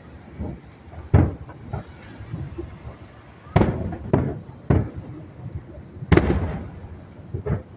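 Aerial fireworks shells bursting: a string of sharp booms with echoing tails, three close together around the middle and the loudest about six seconds in.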